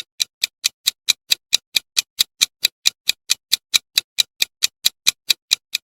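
Steady clock-like ticking of a quiz countdown timer, about four to five ticks a second.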